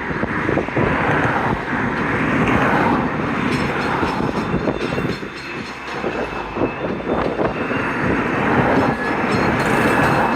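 Freight train cars rolling through a rail yard, a loud, steady rumble of wheels on track.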